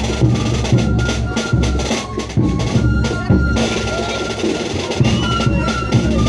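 Live festival band music: wind instruments hold a high, steady melody over repeated drum beats.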